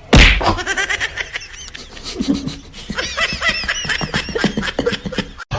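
A sudden loud thump at the very start, then a person laughing in rapid, high-pitched bursts, cut off abruptly near the end.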